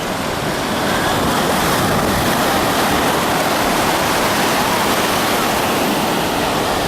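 Ocean surf on the beach: small, gentle waves breaking and washing up the sand in a steady rushing hiss.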